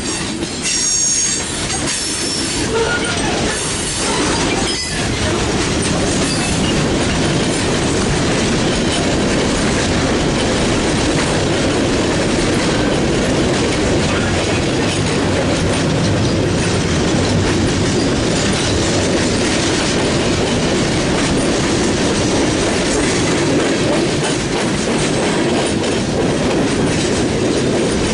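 Freight train cars rolling past with a steady rumble and wheel noise, and a high-pitched wheel squeal in the first few seconds.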